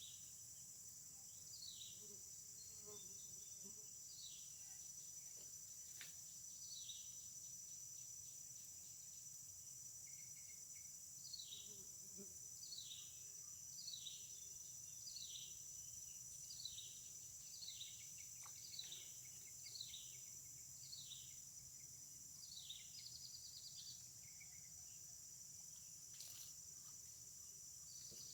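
Faint steady high-pitched insect drone, with a repeated series of short falling whistled notes, about one a second through the middle stretch, typical of a bird calling.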